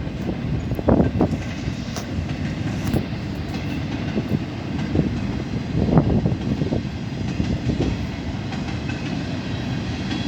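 Train cars rolling past at close range: a steady rumble of steel wheels on rail, broken by irregular clacks and knocks as wheels cross the rail joints.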